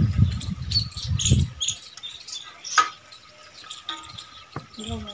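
Small birds chirping in many short, high calls. There are low muffled thuds in the first second and a half and one sharp click near the middle.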